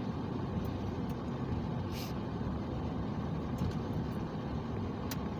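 Steady road and engine rumble inside a moving car's cabin, with a few faint clicks.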